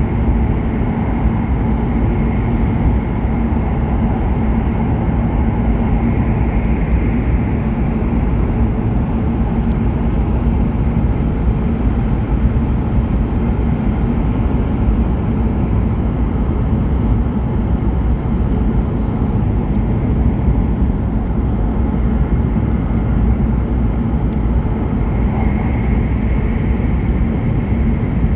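Hokuriku Shinkansen E7/W7 series train running at speed, heard inside the passenger car: a steady rumble and rushing noise with a constant low hum.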